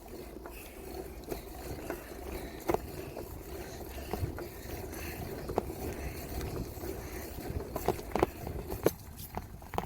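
Bicycle riding along, with steady rolling and rattling noise and a few sharp knocks and clicks from the bike and its mounted camera.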